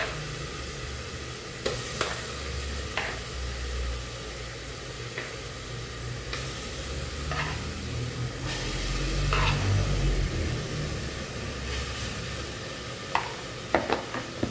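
Chicken breast pieces sizzling as they go into hot oil with garlic, onion and peppers in a pressure-cooker pot, a steady fry with scattered light knocks and clicks as pieces drop in.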